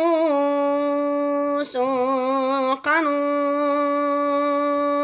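Male Quran reciter chanting in melodic tajweed style, holding long drawn-out vowel notes. The notes come in three sustained stretches split by two short breaks, each opening with a brief wavering ornament before settling on a steady pitch.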